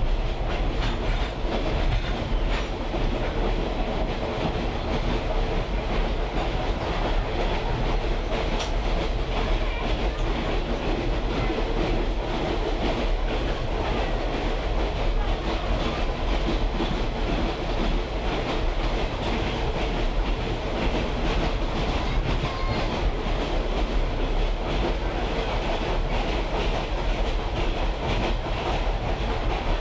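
A moving train heard from a caboose: a steady rumble of steel wheels running on the track, with scattered clicks from the rail joints.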